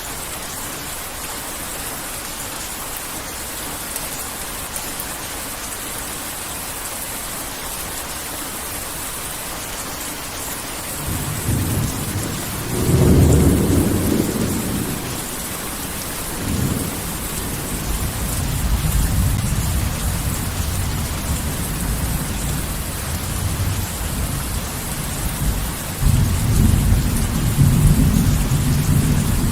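Heavy rain falling steadily, with thunder rolling in partway through: a loud clap and deep rumble, further lower rumbling, and another loud rumble near the end.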